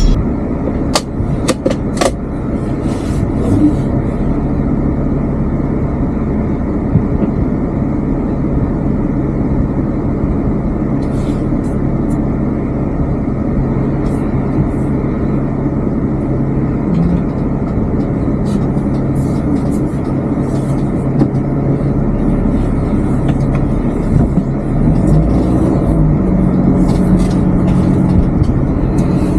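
Camper van driving, heard from inside the cabin: a steady drone of engine and road noise, with a few sharp clicks in the first couple of seconds and the engine tone shifting a little later on.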